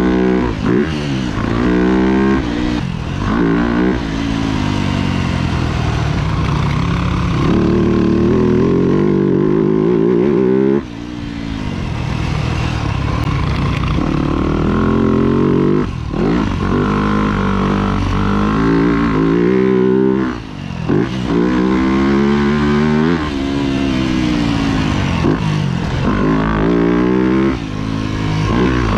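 Four-stroke motocross bike engine under hard riding, revving up and dropping back again and again as the throttle is opened and shut through the gears, with a few sudden brief cuts in the sound.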